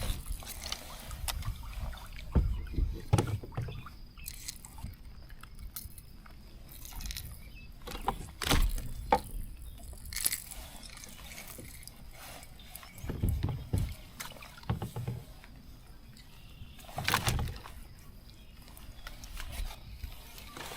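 Scattered, irregular knocks and bumps against a kayak, a handful of louder low thumps among them, over light water sloshing.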